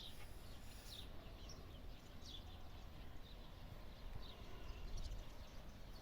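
Faint bird chirps: short, high falling notes about once a second, over a steady low rumble.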